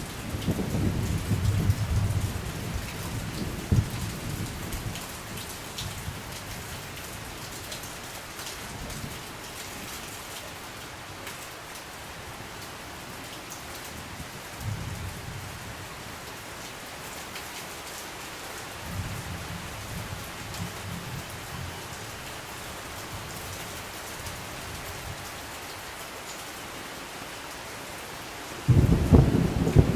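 Steady rain falling, with thunder rumbling low in the first few seconds and briefly twice more in the middle. A louder roll of thunder begins suddenly near the end.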